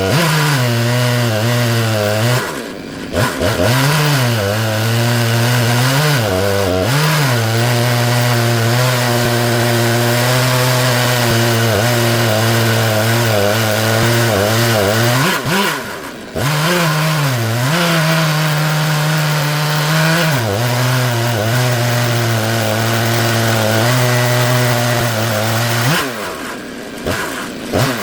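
Stihl MS 661 two-stroke chainsaw running at high revs under load in a chainsaw mill, ripping through black walnut. The engine note holds steady, but three times (about 3 seconds in, about 16 seconds in, and near the end) it drops briefly and then climbs back up.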